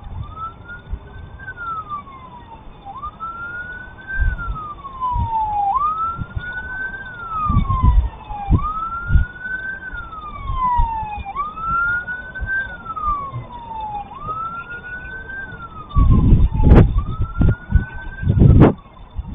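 Emergency vehicle siren in a wail pattern: a tone that rises quickly, then slides slowly down, repeating about every three seconds. Loud low rumbling surges break in a few times, strongest near the end.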